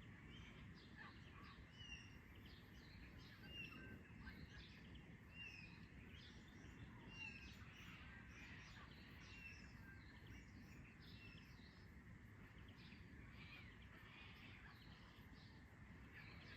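Faint dawn chorus of several wild birds calling at once. One bird repeats a short high note about once a second for the first ten seconds or so, over a steady low background rumble.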